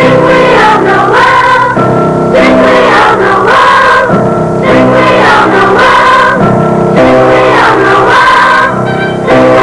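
School choir singing a Christmas carol, many voices holding long notes that change about every second.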